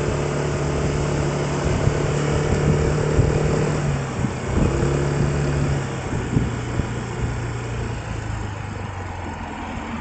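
A vehicle's engine running under steady road noise while travelling. Its pitch steps down about four seconds in and again about two seconds later, as the vehicle slows, with a few light knocks along the way.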